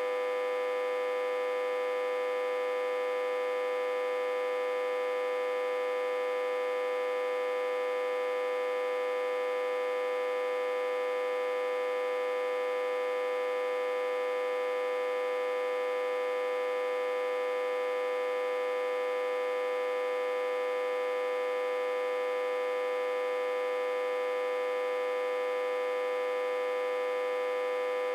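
Autotransformer humming steadily, driven at about 60 to 80 V while reverse-connected to a step-down transformer. One strong, unwavering mid-pitched tone with many higher overtones.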